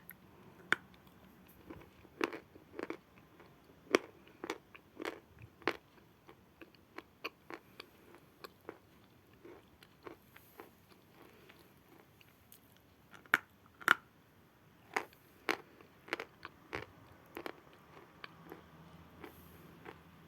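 Close-up biting and chewing of natural chalk: irregular sharp crunches, sometimes in quick pairs, with a few louder bites among softer chewing.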